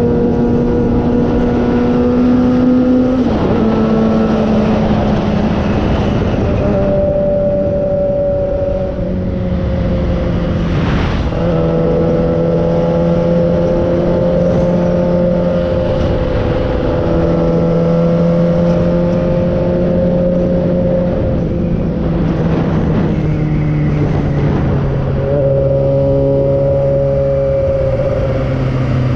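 Motorcycle engine of a 2009 Suzuki GSX-R 600, an inline-four with an M4 exhaust, running steadily under way. Its note holds for several seconds at a time and then shifts in pitch every few seconds, over a constant rush of noise.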